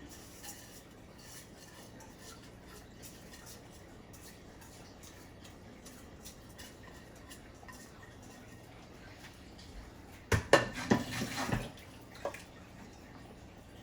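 Kitchen cookware sounds: faint scattered ticks, then about ten seconds in a short burst of loud clattering knocks, like a pot, lid or metal utensil being handled, with one more knock a moment later.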